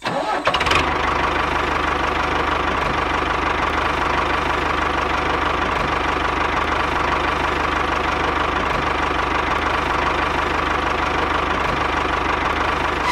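Small motor of a DIY mini tractor running steadily at constant speed, with a fast, even pulse; it starts about half a second in.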